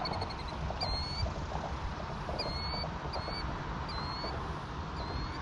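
A bird calling: short high, slightly upturned notes repeated about once a second, with a quick run of notes near the start, over a steady low rumble.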